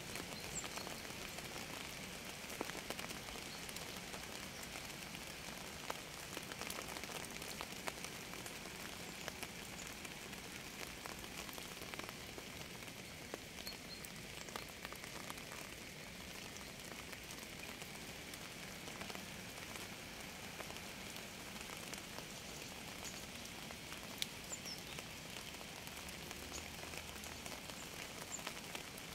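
Steady rain falling, with a dense patter of small drop clicks.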